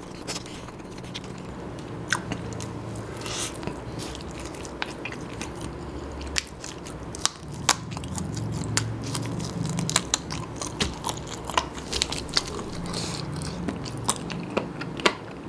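Close-miked chewing and biting of nasi kandar rice and curry eaten by hand, with many sharp mouth clicks and smacks scattered throughout and occasional crunching.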